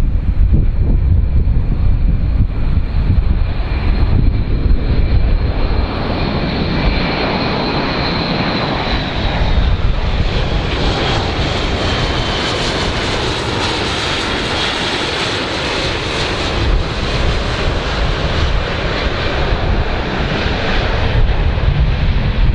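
Jet airliner passing low overhead as it comes in to land: its engine noise swells to a peak around the middle and eases off near the end, with a high whine that slides a little lower in pitch as it goes by. Wind rumbles on the microphone.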